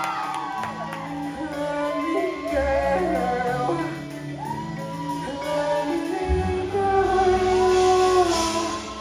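Live pop song heard through a concert hall: a woman's voice sings a melody with long held notes over sustained bass and synth notes, with no drums yet.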